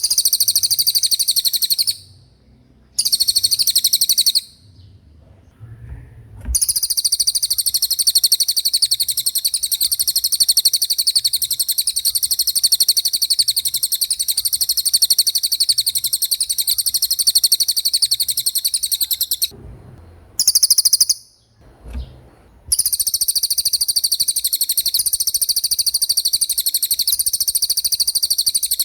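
A cililin songbird singing a very rapid, high-pitched rolling trill, in long unbroken phrases, the longest about thirteen seconds, with short pauses between them.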